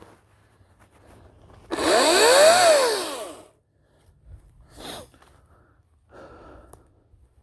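Ryobi 40-volt cordless chainsaw triggered once with no load, its motor and chain whining up in pitch and winding back down over about two seconds, run free to throw out grass caught in the chain.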